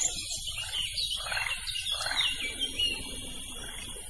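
Dusk nature ambience: birds calling in a run of short chirps and downward-slurring notes, over a steady high hiss.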